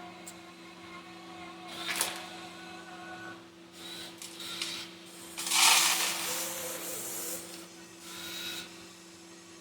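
1:14-scale RC excavator at work: its small electric motors whine in short bursts over a steady hum. There is a sharp knock about two seconds in, and a louder, noisy rush of rock spilling for about two seconds past the middle as it loads the dump truck.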